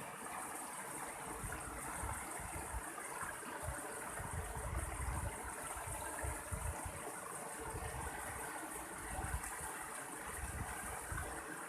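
Mountain stream flowing steadily, with uneven low rumbles coming and going underneath.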